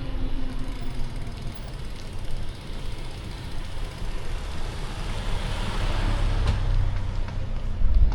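City street traffic: motor vehicles running with a steady low rumble, one passing close by with a swelling rush of noise a little past the middle.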